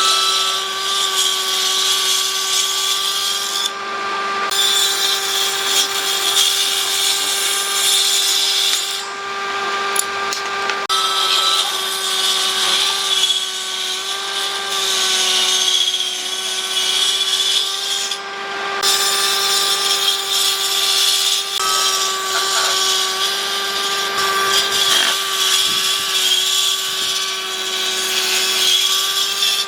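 Handheld power tool running steadily at constant speed, its hiss of cutting or abrading wood. The cutting noise drops away briefly about four, ten and eighteen seconds in while the motor keeps running.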